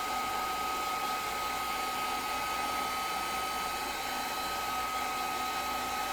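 Craft heat tool blowing steadily with a constant whine, drying damp craft pieces.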